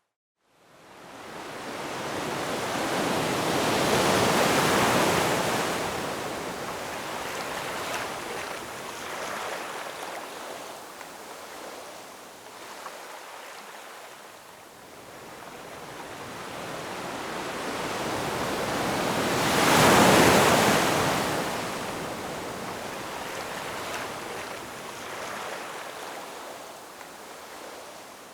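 Ocean waves breaking and washing up on the shore. The sound rises out of a brief silence, swells about four seconds in, eases to a hiss, then builds to a louder wave about twenty seconds in.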